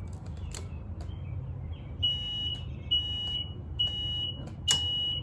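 Four high-pitched electronic beeps about a second apart, each about half a second long, from the key-on Ryobi 48V zero-turn mower, over a low steady hum. Near the end a sharp click sounds as the main solenoid switches in, and the power stays on: the pre-charge circuit lets the mower start.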